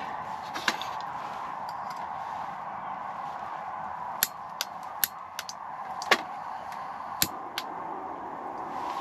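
A series of sharp, light clicks and knocks, like small objects being handled, over a steady hiss.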